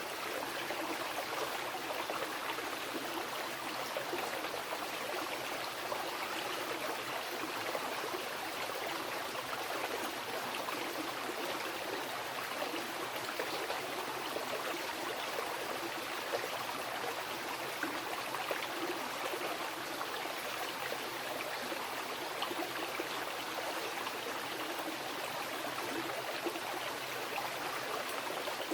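Mountain river rushing over rocks, a steady, even flow of water with fine splashing and no breaks.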